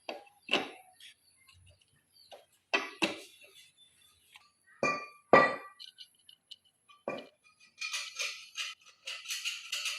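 Metal tools and engine parts clinking and knocking as they are handled, a few separate strikes, then a busy rattling scrape starting about eight seconds in.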